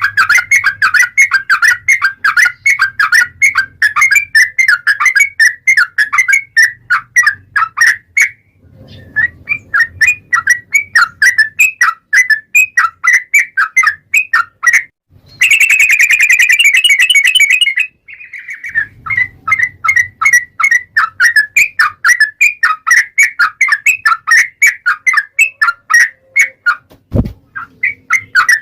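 Yellow-vented bulbul (trucukan) singing a long, rapid song of quick repeated chattering notes, the kind of song played as a lure to set other trucukan singing. About halfway through the notes briefly run together into a denser, higher trill, and a single low thump comes near the end.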